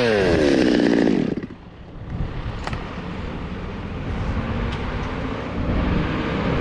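STIHL 200T top-handle chainsaw's two-stroke engine coming off full throttle, its pitch gliding down, then dropping away sharply about a second and a half in to a low, steady hum.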